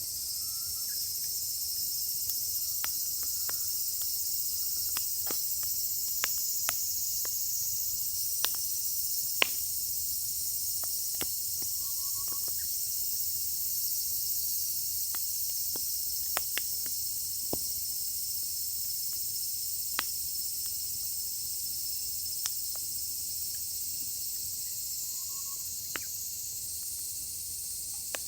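Firewood burning in a fire pit, crackling with sharp, irregular pops, over a steady high-pitched chorus of insects.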